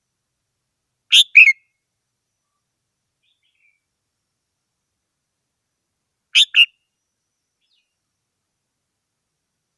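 Red-whiskered bulbul singing: two short phrases of two quick notes each, about five seconds apart, with silence between.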